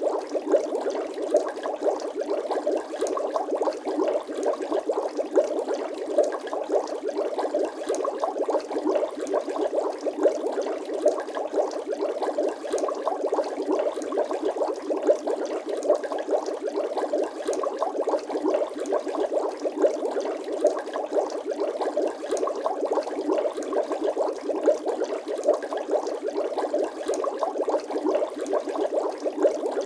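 Bubble sound effect: water bubbling in a steady, dense stream of small rapid pops and gurgles, with no deep bass.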